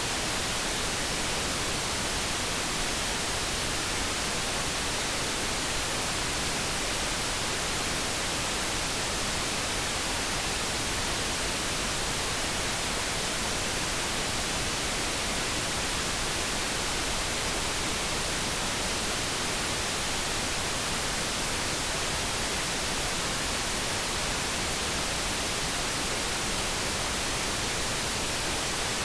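Steady synthetic noise: a constant, even hiss that does not change.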